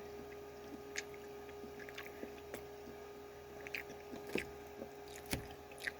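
Quiet room tone with a steady hum and a few faint, scattered clicks and soft squishy sounds.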